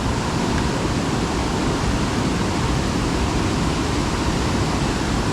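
Steady rushing of water, an even roar with a choppy low rumble underneath, typical of water pouring through a flood-swollen dam's tailwater.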